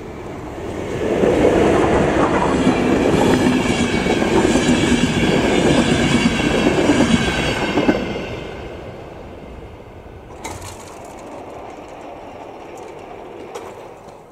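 A train passing through the level crossing, rumbling and clattering loudly for about seven seconds, then fading away. A sharp clunk follows near the end as the crossing barrier is released.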